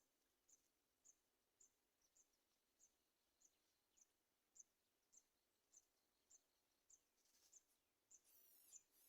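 Faint, high-pitched bird chirps repeating evenly about twice a second. From about eight seconds in, quicker, buzzier chirping joins them and grows louder.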